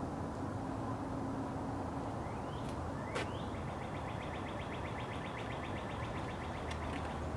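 Outdoor ambience: a songbird's rapid trill, with two short rising chirps before it, over a low steady hum of distant traffic.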